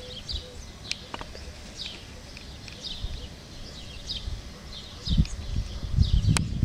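Small birds chirping repeatedly, short high falling chirps about one or two a second. Low rumbles and knocks on the microphone come in over the last second or two.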